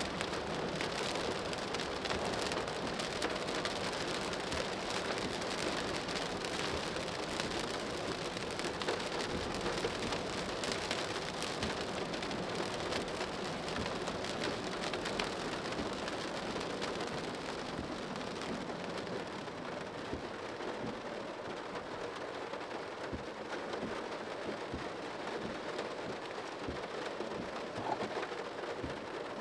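Rain falling on a car's body and windscreen, heard from inside the cabin of the moving car: a steady hiss dense with tiny drop hits. Its high part fades over the last ten seconds or so.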